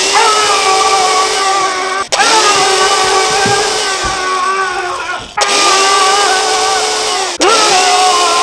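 Electric power-tool motor run in four bursts, each spinning up quickly, holding a steady whine, then winding down, with a hiss over it; the tool is being used to grind a part down to fit a drill chuck.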